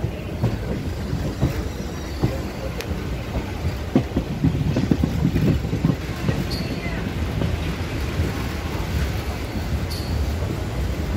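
Electric multiple unit suburban train in motion, heard from its open doorway: a steady rumble of wheels on rail with a run of clacks over rail joints and points. Short wheel squeals come twice, about six and ten seconds in.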